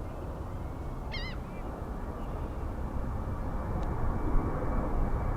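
Steady low rumble of distant jet aircraft engines, slowly growing louder. About a second in, a short warbling bird call.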